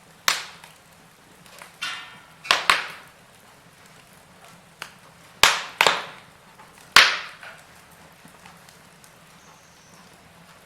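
Burning wood crackling, with about seven sharp, loud pops and cracks, some in quick pairs, over the first seven seconds, then only faint crackle.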